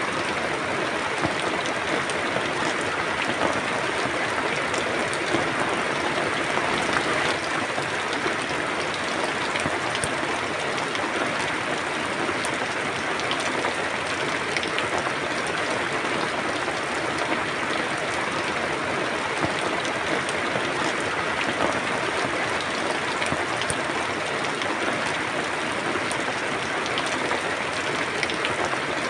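Steady rain falling, an even hiss of drops on a surface with scattered individual drop ticks.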